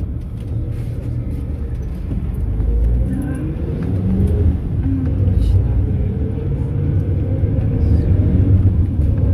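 Mercedes-Benz Sprinter minibus running, a steady low engine and road rumble heard from inside the passenger cabin, with the engine note rising as it pulls away about three to four seconds in.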